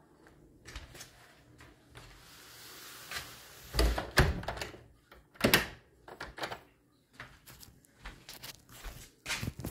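Irregular knocks and thumps, the loudest a cluster about four seconds in and another about five and a half seconds in.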